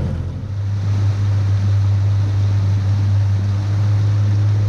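Boat engine running steadily, a low even hum, with a wash of water and wind noise over it.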